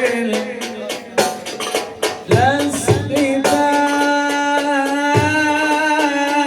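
Male nasheed singer performing an Arabic song line over hand-drum strikes; about halfway through he holds one long, steady note.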